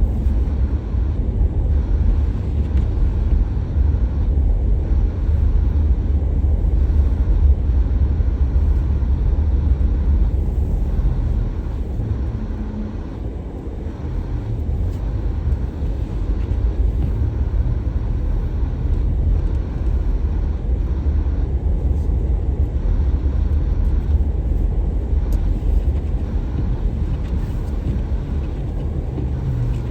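A car driving: steady low road and engine rumble, easing off briefly about halfway through.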